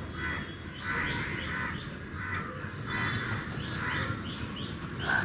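Outdoor birds calling, including quick runs of short, falling chirps, about five a second.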